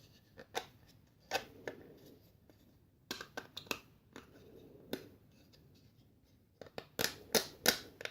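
Hard plastic clicks and taps of 3D-printed PLA parts being handled and fitted together, in scattered ones and twos with a quick run of louder clicks near the end.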